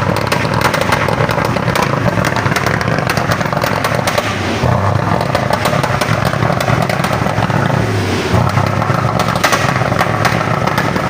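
Isuzu 6HE1 inline-six truck diesel running loud and rough, revved up and down a couple of times, with many irregular sharp cracks through the running. It is an engine with a misfiring and backfiring fault, still smoking after a new head gasket, valve seals and valve grind.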